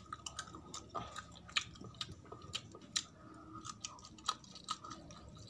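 A person chewing a mouthful of rice and fried spotted scat (kitong) eaten by hand, with many irregular sharp mouth clicks and smacks.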